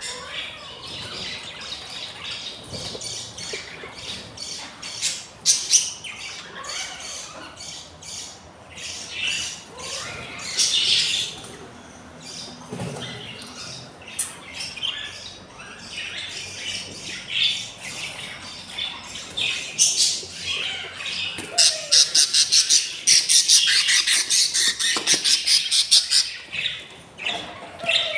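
Budgerigars squawking and chattering with high, scratchy calls. Near the end comes a fast run of repeated harsh calls, about four or five a second, lasting some four seconds.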